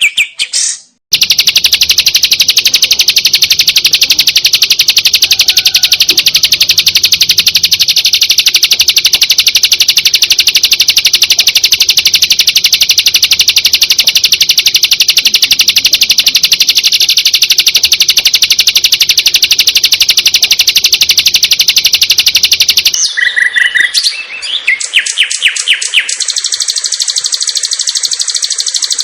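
Birdsong from a masteran track for training long-tailed shrikes (cendet), full of mimicked songs of other birds. After a brief break about a second in, it plays a long, very fast, even trill of high notes for about twenty seconds, then switches to shorter chirps and a different rapid trill.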